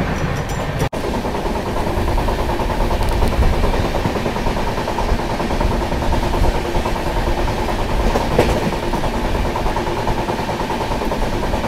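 Express passenger train with conventional non-LHB coaches running at speed: a loud, steady rumble of wheels on the track with a faint steady hum in it.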